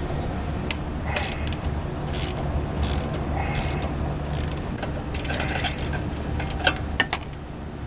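Hand ratchet clicking in short runs as the nuts of an exhaust pipe clamp are tightened, with metal clicks and knocks from the tool on the clamp.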